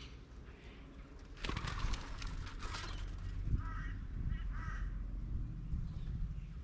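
Birds: a loud, harsh, rasping burst about a second and a half in that lasts around a second and a half, then two short calls close together a little later.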